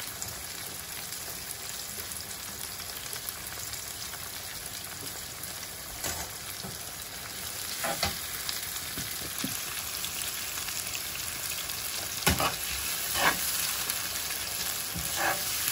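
Chopped onions, tomatoes and green chillies sizzling steadily in oil in a nonstick frying pan, stirred with a plastic slotted spoon that scrapes and taps the pan a few times.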